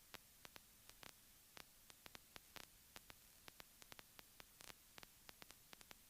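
Near silence: a faint steady hiss with faint, irregular clicks, a few a second.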